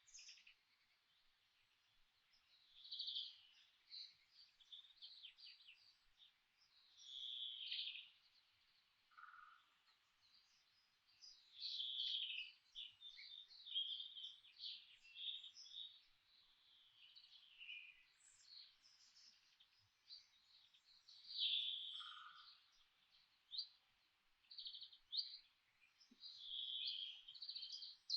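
Songbirds singing in the forest: bursts of quick, high chirps and trills every few seconds, with an occasional short lower note. A faint steady hiss runs beneath.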